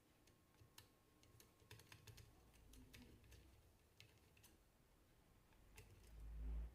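Faint, scattered light clicks of small metal parts, such as alternator screws, being handled on a workbench, with a low rumble rising near the end.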